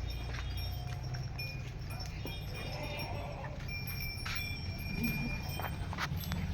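Goats moving about, with scattered sharp hoof clicks over a steady low rumble.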